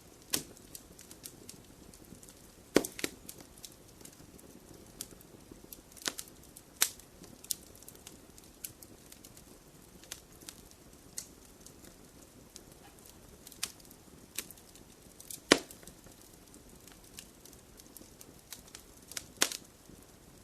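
Wood fire crackling in a fireplace: a soft low rumble of the flames with scattered sharp pops and snaps of burning wood, a few of them much louder than the rest.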